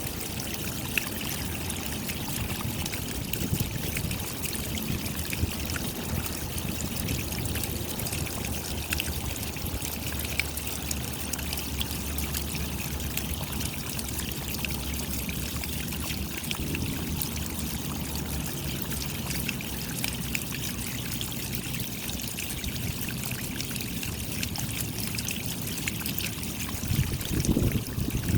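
Steady rain: many small drop ticks over a continuous trickle of running water, swelling to a louder, deeper rush near the end.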